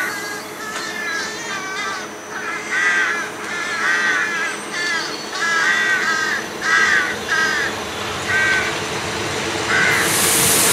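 A bird calling over and over, one or two short calls a second, over the steady running noise of a VB2N double-deck push-pull train moving slowly past. A loud hiss starts suddenly near the end.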